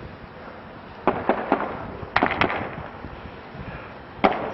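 Gunfire: six sharp shots in ragged groups, three a second or so in, two just after two seconds, and one near the end.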